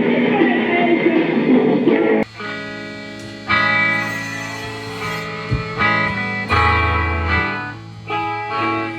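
Guitar chords being strummed and left to ring, a new chord struck every second or two. A louder, denser mix of sound fills the first two seconds and cuts off suddenly.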